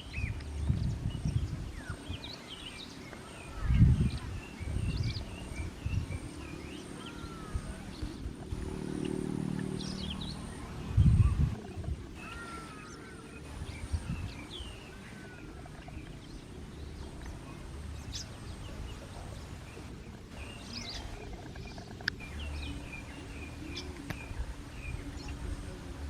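Small birds chirping and whistling in short, repeated calls, with low thumps of wind or handling on the microphone about 4 and 11 seconds in, and a low hum in the middle.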